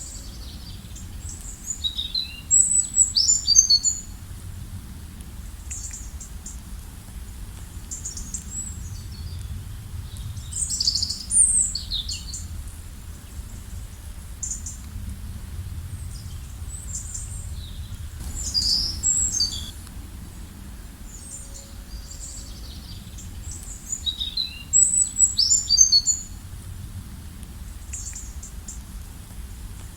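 Songbirds chirping and singing: about four loud, high, rapid song phrases a few seconds apart, with fainter chirps between them, over a steady low rumble of background noise.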